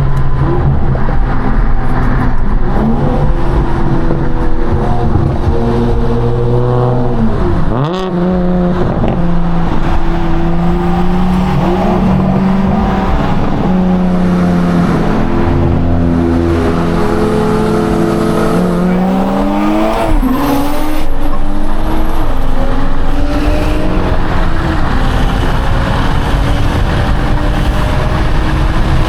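BMW B58 turbocharged inline-six at full throttle, its revs climbing steadily through the gears. There are quick upshifts, a sharp drop and then a climb again, about eight seconds in and again about twenty seconds in.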